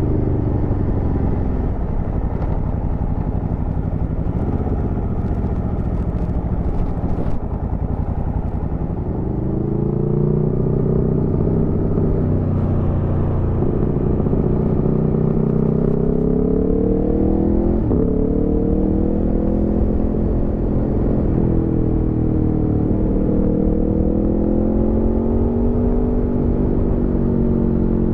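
Aprilia Tuono V4 motorcycle's V4 engine at riding speed. The revs fall in the first couple of seconds, then pull up again from about nine seconds in, with gear changes near the middle, and rise and fall after that.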